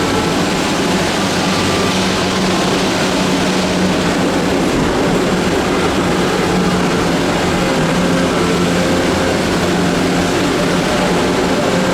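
Steady running noise of a vehicle heard from inside, with a constant low hum.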